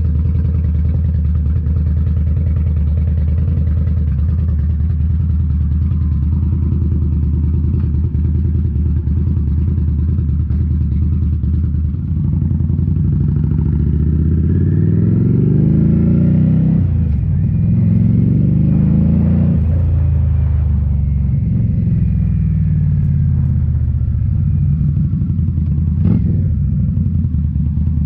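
2018 Indian Scout Bobber's liquid-cooled V-twin running through Rinehart slip-on mufflers, first idling steadily, then with engine speed rising and falling several times. A single sharp knock sounds near the end.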